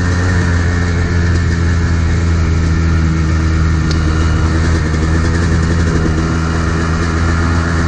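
Modded Kawasaki KDX220R's single-cylinder two-stroke engine with FMF exhaust running at a steady, fairly high speed while the dirt bike is ridden fast on a dirt road.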